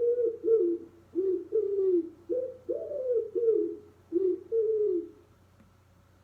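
A pigeon cooing: a run of about nine low coos, each sliding slightly down in pitch, that stops about five seconds in.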